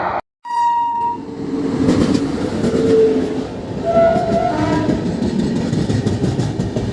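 A short, high train horn blast about half a second in, then a train running by with a steady rumble and wheels clattering over the rail joints.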